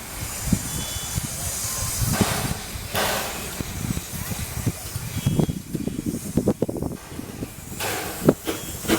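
Steam locomotive hissing steam, with louder bursts about two and three seconds in and a few clanks near the end.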